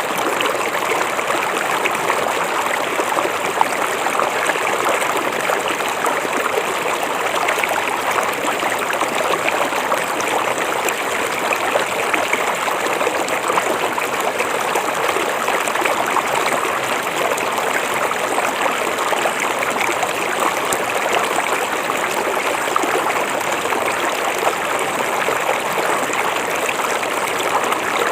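Shallow river or stream flowing steadily over rocks, a constant splashing and trickling rush of water.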